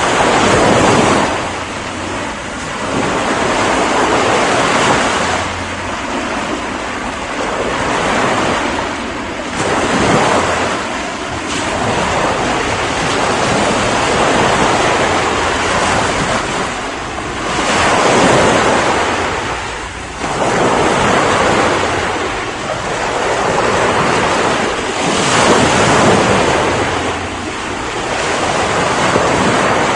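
Ocean waves breaking and washing in, a continuous rush of surf that swells and falls every few seconds.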